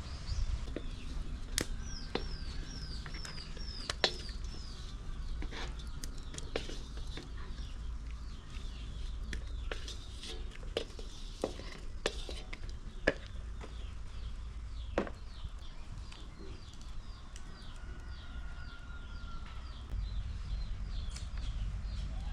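Small birds chirping: a quick run of falling chirps a couple of seconds in, then fainter chirps on and off, with scattered sharp clicks and knocks and a steady low rumble underneath.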